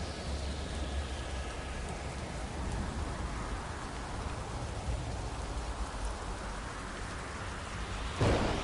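Steady heavy rain with a low rumble of thunder underneath, then a sudden loud thunderclap near the end.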